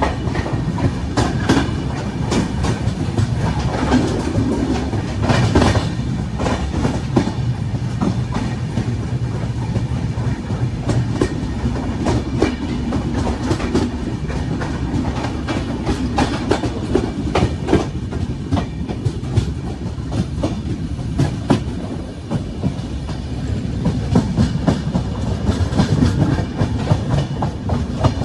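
Moving train: a steady low rumble with the clickety-clack of wheels over rail joints and frequent sharp rattles and knocks.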